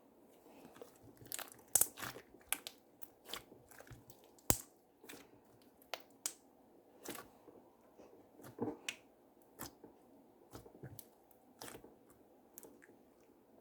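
Slime being squished and worked by hand, giving irregular sharp pops and clicks, a few each second.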